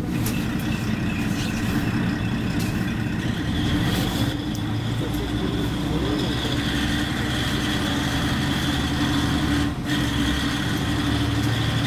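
Steady hum of a train standing at a station platform, a constant low tone with a thin high whine above it.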